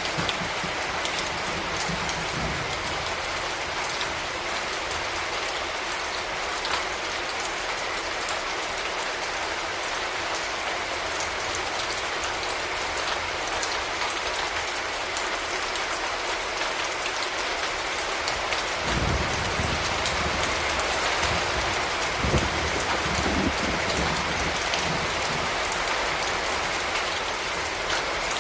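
Steady, heavy rain falling on hard urban surfaces, a dense hiss full of individual drop spatters. About two-thirds of the way through, a low rumble joins underneath and runs on to the end.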